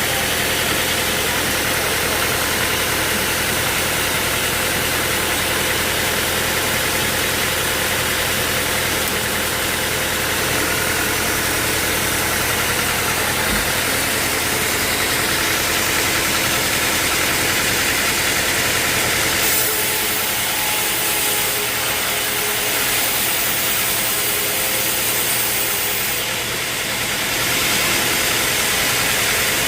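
Sawmill machinery running steadily with an engine-like drone. About two-thirds of the way through, the deep hum drops away and a brighter, hissier sound takes over.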